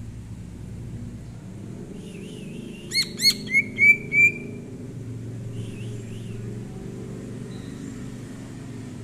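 Green leafbird (cucak ijo) singing: a short warble, then five loud whistled notes in quick succession about three seconds in, followed by softer twitters, over a steady low rumble.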